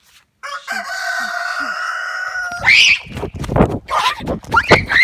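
A long, steady, high cry held for about two seconds, then a loud shriek and a stretch of shrieks over heavy thrashing and scuffling as a rooster attacks.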